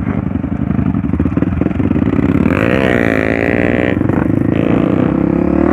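Trail motorcycle engine running with a steady, pulsing beat, revved up once about halfway through and then easing back down.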